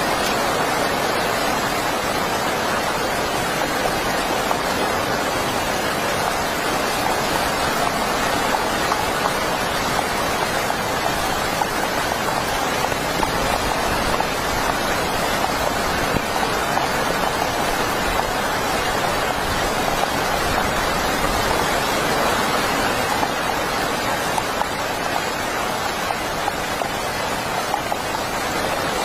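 Heavy rain falling steadily: a dense, even hiss of rain with many individual drops ticking through it.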